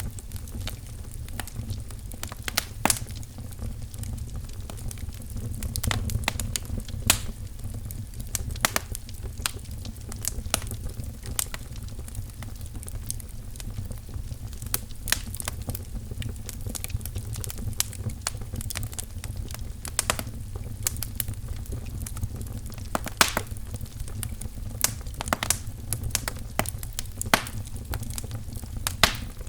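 Wood fire crackling in a fireplace: irregular sharp pops and snaps, a few louder than the rest, over a steady low rumble of the burning.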